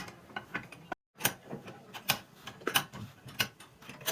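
Irregular light metallic clicks and taps from hand work on turbocharger parts, with a short total dropout about a second in.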